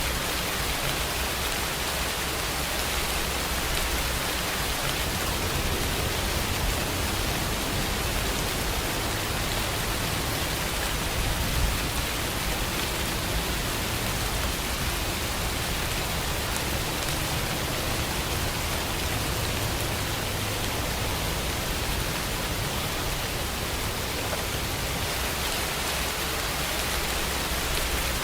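Steady rain falling, an even hiss, with a low rumble underneath that rises and falls.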